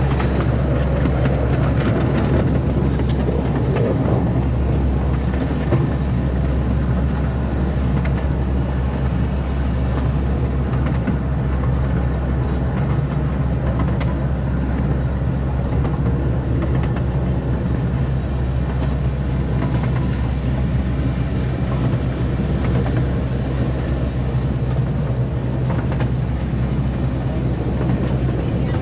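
Small amusement-park ride train running at a steady speed, heard from a carriage: a constant low drone with a rumble over it.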